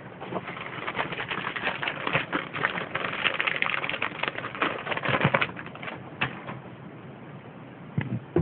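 Savannah monitor lizard crunching a day-old chick in its jaws: a rapid run of crackling clicks for about five seconds that then thins out, with one sharper click near the end.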